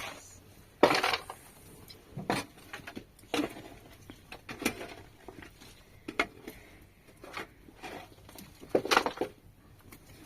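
Irregular knocks and clatters of hard objects being handled, about one every second or so. The loudest come about a second in and near the end.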